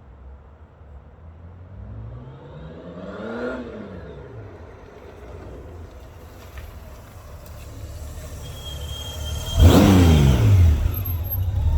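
Motorcycle engine passing by twice: first farther off about three seconds in, its pitch rising then falling away, then close and loud near the end, its pitch dropping sharply as it goes past.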